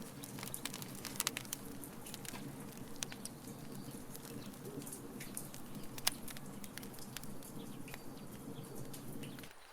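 Wood fire in a fire pit crackling, with irregular sharp pops and snaps over a low, steady rush.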